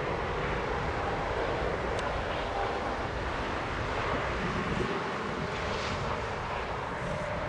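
Steady jet engine noise of a Boeing 767-300 freighter climbing away after take-off.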